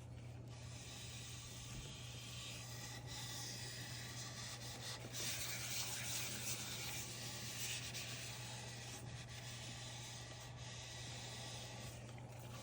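Soft, steady rubbing on the surface of a wooden bowl, a little louder around the middle, over a low steady hum.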